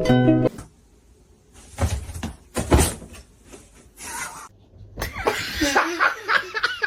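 A cat yowling in wavering, drawn-out calls through the last two seconds. Before it come a few short knocks and rustles, and a plucked harp-like tune cuts off half a second in.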